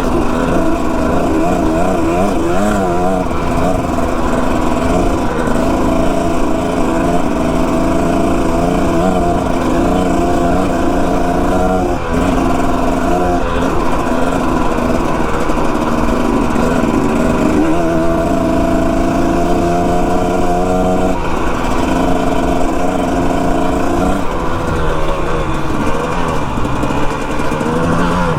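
Dirt bike engine running while riding, its pitch wavering with the throttle and stepping down and up at several points as gears change, with a steady low rush of wind on the microphone.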